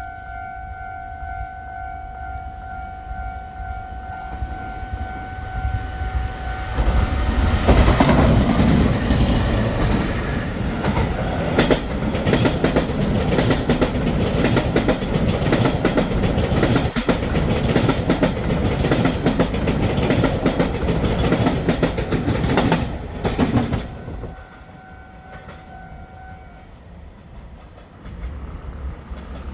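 A Taiwan Railway train passes through a station at speed, loud for about sixteen seconds, with wheels clattering over rail joints. A steady electronic warning tone sounds before it arrives and is heard again after it has gone.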